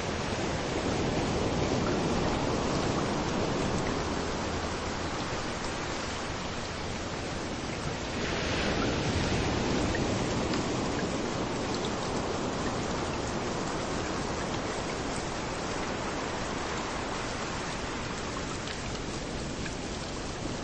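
Steady rain falling with small waves washing onto a beach, the surf swelling twice: once early and again more strongly about eight seconds in.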